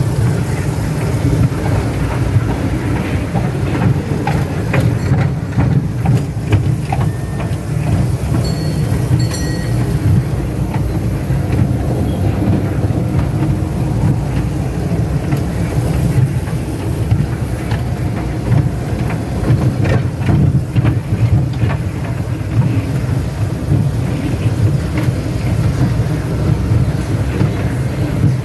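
Passenger train running along the track, heard from aboard: a steady low rumble with the clickety-clack of wheels passing over rail joints.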